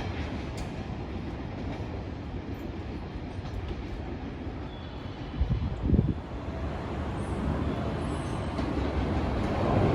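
A train running past on the line, a steady rumble with strong wind buffeting the microphone; two heavy low thumps come about five and a half to six seconds in.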